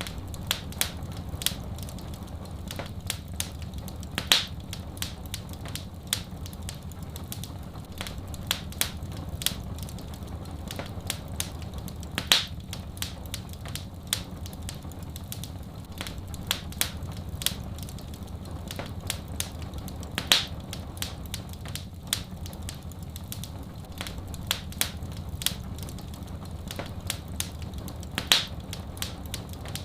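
Wood fire crackling steadily with many small snaps and a louder pop about every eight seconds, over a low steady rumble.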